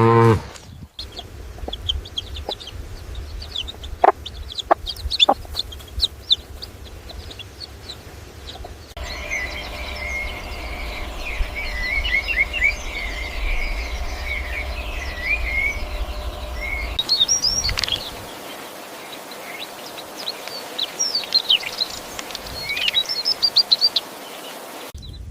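Chickens calling, with many short high-pitched peeps and chirps, over a low rumble for the first two-thirds. The sound changes abruptly several times, as if spliced from separate recordings.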